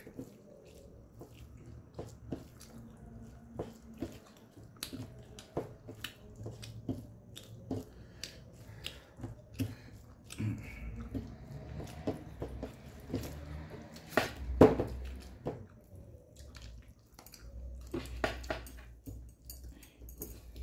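Close-up chewing of raw apple slices: a run of crisp crunches and wet mouth sounds, with one louder crunch about two-thirds of the way through.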